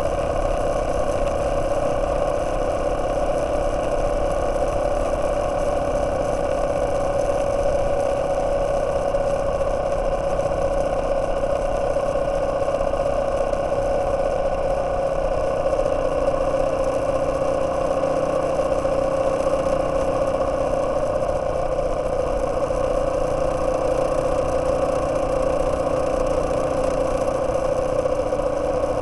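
Yamaha Serow 225's single-cylinder four-stroke engine running steadily at a constant cruising speed, with a steady rush of wind noise underneath.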